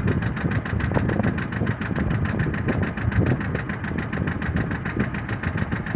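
John Deere 650 compact diesel tractor engine running steadily with an even pulsing beat.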